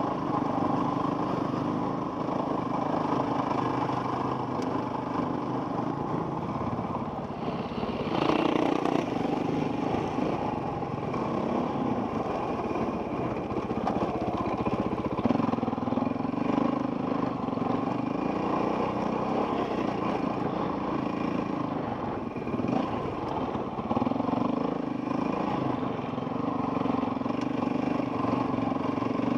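Off-road dirt bike engine running under way, heard from a helmet camera, its note holding steady and shifting with the throttle. It revs up sharply about eight seconds in and drops off briefly about two-thirds of the way through.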